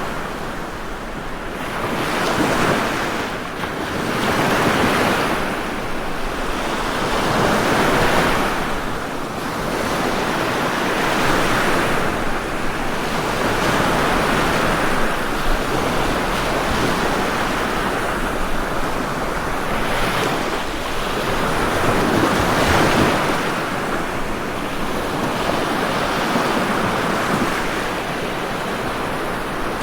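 Ocean waves washing in on a shore, a continuous surf that swells and eases every few seconds.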